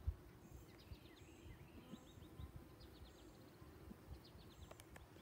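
Near silence outdoors: faint, repeated short bird chirps over a low steady background rumble, with a soft thump right at the start.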